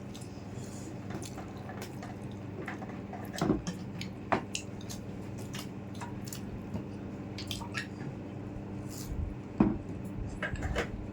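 Wet mouth noises of people eating chicken curry and rice: an irregular scatter of short smacks and clicks from chewing and the lips and cheeks, a few of them louder, over a steady low hum.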